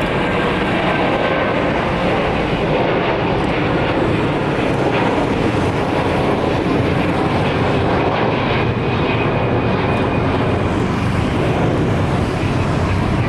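Jet airliner engines running with a steady, loud roar and a faint high whine in it.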